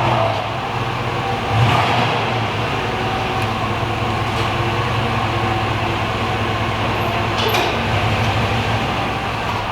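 Steady drone of a running motor vehicle, which cuts off abruptly at the end.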